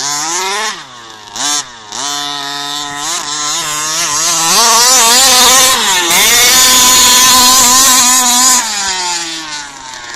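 RC car motor revving in short blips, then held at higher speed for several seconds before easing off near the end.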